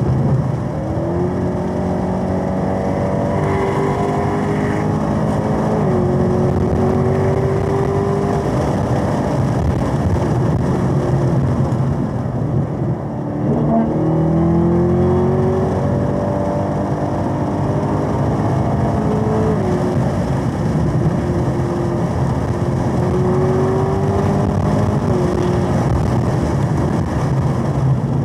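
Supercharged LT4 V8 of a 2021 Camaro ZL1 1LE at full throttle, its pitch climbing through the revs with upshifts about six and twenty seconds in. About thirteen seconds in it drops away briefly under braking for a corner, then pulls hard again.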